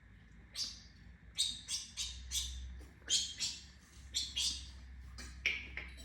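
African grey parrot making about a dozen short, hissy high-pitched chirps and clicks in an irregular series.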